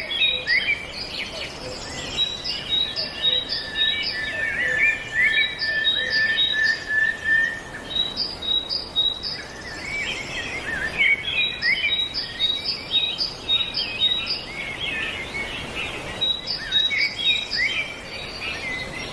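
Several songbirds calling at once: many quick chirps and trills, with one bird repeating a short high note about twice a second, and a run of lower even notes between about four and seven seconds in.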